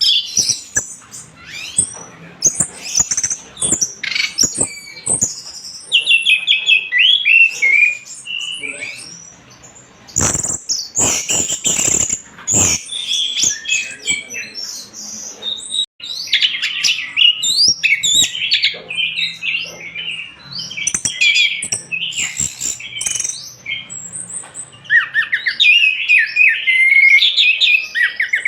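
Caged orange-headed thrush singing loudly and continuously: fast, varied phrases of whistles and chattering notes. A cluster of sharp knocks comes about halfway through.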